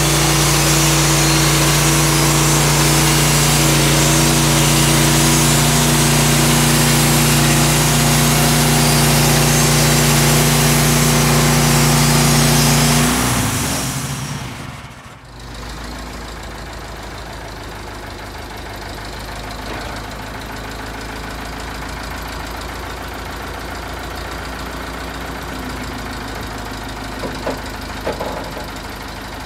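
Petrol engine of a bandsaw sawmill running at high revs, then throttling down about halfway through. After a short dip, a quieter engine idles steadily, with a couple of light knocks near the end.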